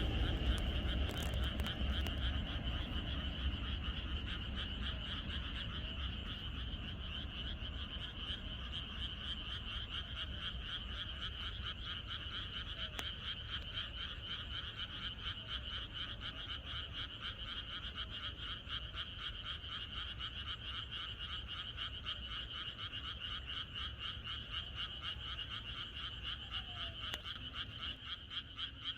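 A dense chorus of many frogs calling together, a continuous rapid pulsing croak. A low rumble fades out over the first few seconds.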